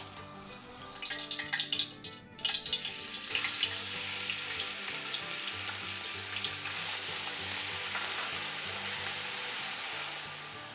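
Hot oil sizzling in a steel pot as minced garlic goes in and is stirred with a wooden spoon. A few clinks come first, then the sizzle starts suddenly about two and a half seconds in and runs on steadily.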